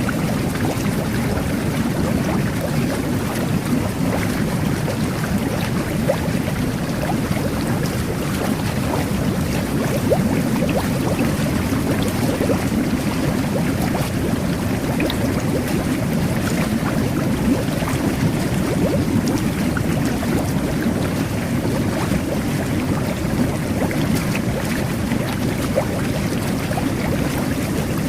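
Jet bath: water churning and bubbling steadily from the jets, with a constant low rush and scattered small crackles of bursting bubbles.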